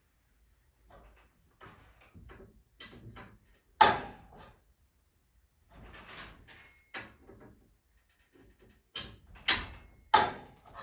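Clanks and knocks from work on garage door torsion spring hardware, an irregular run of short impacts with the sharpest hit about four seconds in and two more strong ones near the end.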